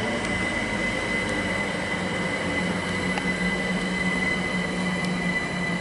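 London Overground Class 378 electric multiple unit running into the platform, with a steady high-pitched squeal over a low hum and the rumble of the train.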